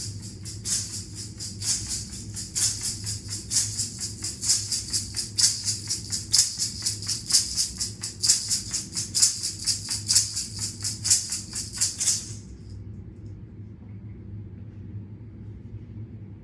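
A shaken rattle: fast, even shaking strokes, several a second, that stop about twelve seconds in. A steady low hum runs underneath.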